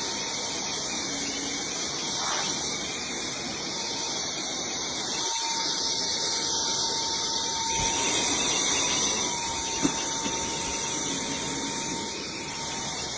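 Steady rushing air noise from a running machine, with a faint constant whine in it; it grows a little louder about eight seconds in.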